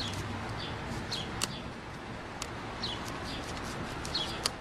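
Small birds chirping now and then, each a short high falling note, with a few sharp clicks, the loudest near the end.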